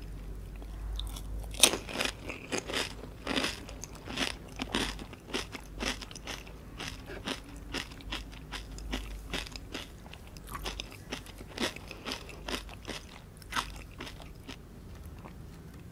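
A person biting into and chewing a pani puri: the hollow fried shell crunches and crackles in many sharp bites. The loudest crunch comes about a second and a half in, and the crunching thins out near the end.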